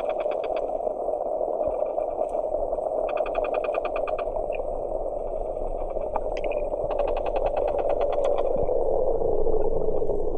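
Underwater sound: a steady low wash with three trains of rapid clicking pulses, each lasting about a second, spaced a few seconds apart.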